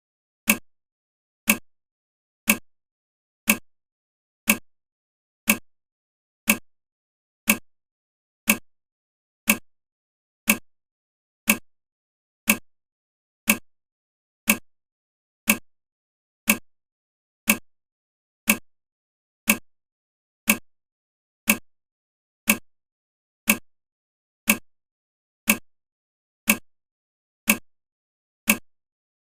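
A short, sharp click repeating evenly once a second, each one dying away quickly, with silence between.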